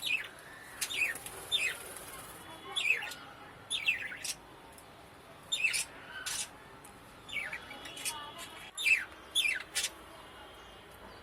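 Budgerigars chirping: about a dozen short chirps, each falling in pitch, coming singly and in pairs every second or so.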